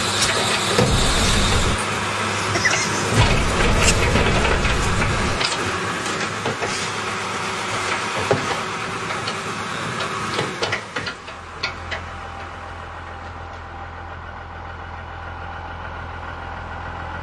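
Heavy machinery engine running amid repeated metal clanks and crunching knocks, then settling to a quieter, steady idle about eleven seconds in.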